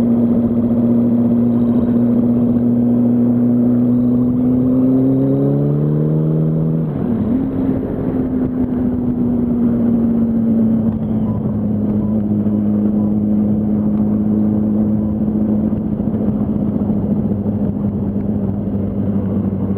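Yamaha R1's inline-four engine pulling under way at steady revs. The pitch climbs from about four seconds in, drops suddenly at about seven seconds as the gear changes up, then holds a steady, slightly lower note.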